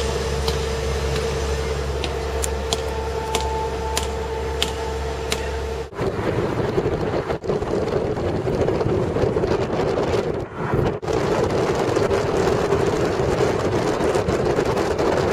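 Taxi cab driving through city traffic, heard from inside the cab: steady engine and road noise. About six seconds in, the noise changes abruptly to a rougher rush.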